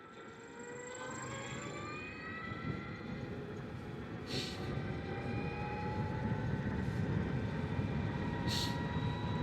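Energica Experia electric motorcycle accelerating: the electric motor's whine rises in pitch in several tones at once, over tyre and wind rumble that grows louder. Two short hisses come about four and eight and a half seconds in.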